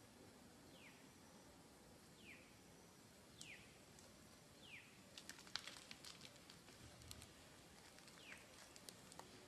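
Faint bird calls: a short whistle sliding down in pitch, repeated about every second and a half. A patch of faint crackling clicks comes in the second half.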